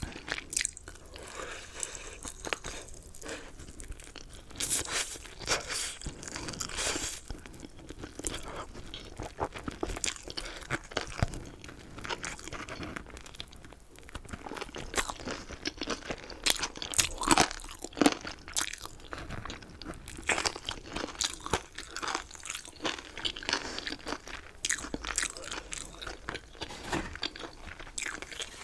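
Close-miked eating of chicken: steady, irregular crunching and chewing, with bites, and a few louder crunches a little past the middle.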